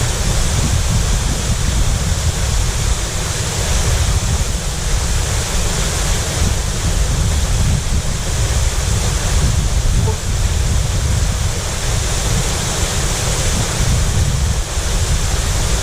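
Steady rush of a waterfall and its stream, with wind buffeting the microphone as a flickering low rumble underneath.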